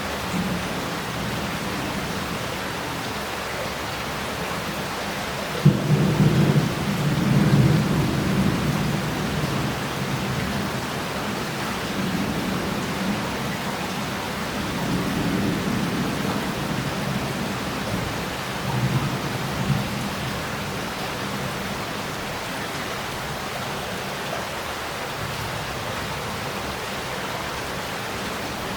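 Heavy rain pouring steadily, with a thunderclap about six seconds in that breaks sharply and rolls on as a low rumble in waves before fading away.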